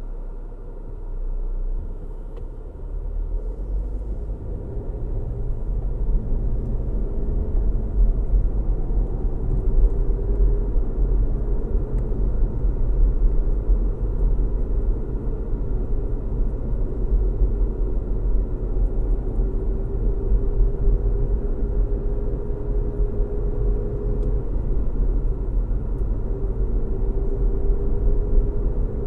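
Car driving on a road: a steady low rumble of tyres and engine hum, with a faint whine, growing louder over the first few seconds and then holding steady.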